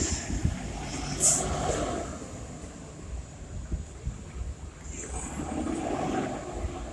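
Street traffic: vehicles passing on a city street, one swelling by about a second in and another about five seconds in, each with a short high hiss, over a steady low rumble.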